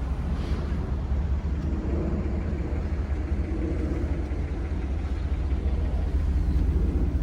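Ford F650's 7.3L gas V8 running steadily, a low, even rumble.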